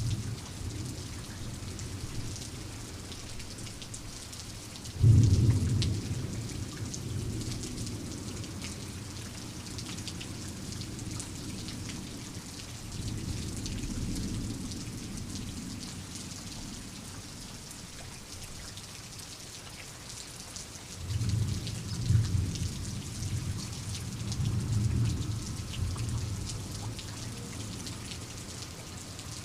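Steady rain falling with fine pattering drops, and thunder: a sudden loud clap about five seconds in that rumbles away over several seconds, a softer roll in the middle, and a long rolling rumble in several surges in the last third.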